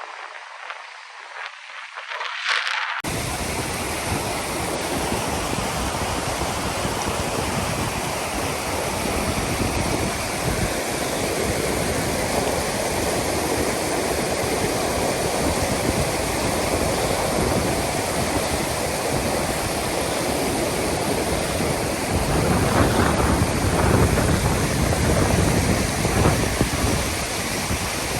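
Steady rushing of fast-flowing water, cutting in abruptly about three seconds in and growing somewhat louder near the end.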